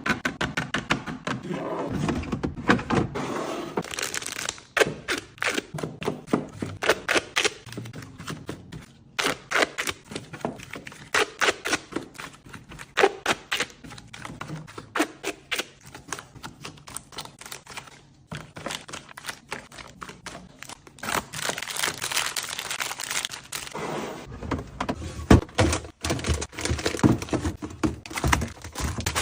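Quick runs of small clicks, taps and knocks from containers and packaging being handled and set down while a refrigerator is stocked.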